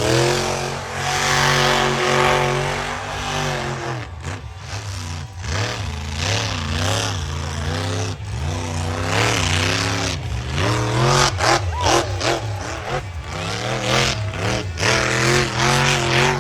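Monster truck engine revving, its pitch climbing and falling again and again as the throttle is opened and closed.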